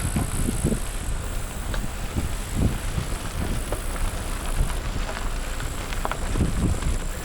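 Wind buffeting the microphone: a steady low rumble broken by irregular short gusts.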